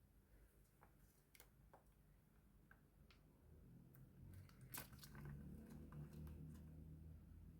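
Near silence: a few faint, scattered clicks and taps, with a faint low hum coming in about halfway.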